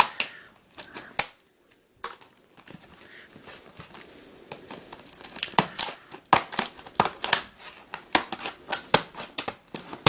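Plastic packaging being handled and cut open, crinkling, with a quick run of sharp clicks and snips in the second half.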